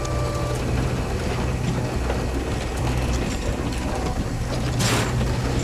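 Flat deck tow truck's winch pulling a wrecked car over, with the truck's engine running as a steady low hum under a dense mechanical clatter. A brief crunch comes near the end.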